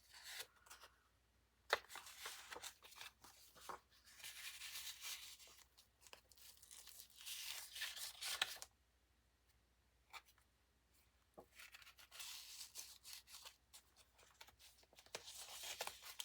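Paper and card rustling and sliding as journal pages and tucked paper pieces are handled, with a few light taps and clicks. Two stretches of rustling are split by a quiet gap about nine seconds in.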